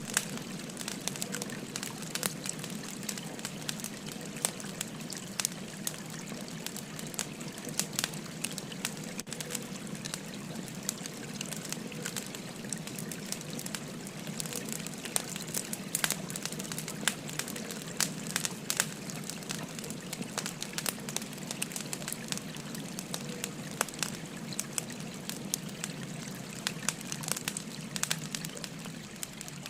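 Wood fire crackling with many sharp pops and snaps at irregular intervals, over the steady rush of a gently flowing river.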